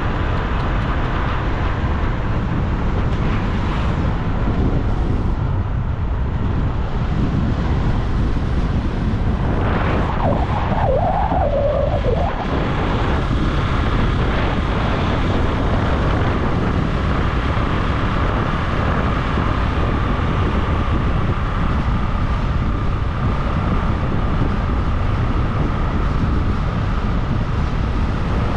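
Steady wind and road noise from riding a bike along a road, heaviest in the low end. About ten seconds in, a brief wavering tone passes.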